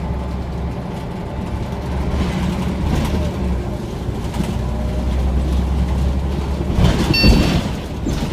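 Scania OmniCity single-deck bus running, its engine a steady low drone under road rumble and rattles. About seven seconds in there is a louder clatter with a brief high tone.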